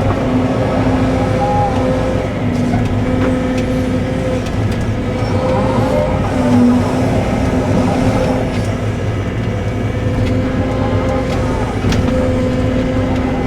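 Cat 313 excavator's diesel engine running steadily under work, its tone wavering slightly, with a few light knocks.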